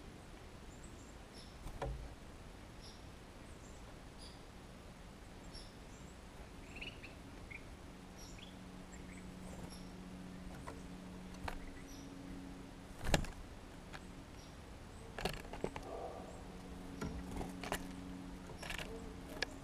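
Faint outdoor ambience with a small bird giving short high chirps over and over, about two a second, and a few sharp knocks, the loudest about 13 seconds in, with a low steady hum joining about halfway through.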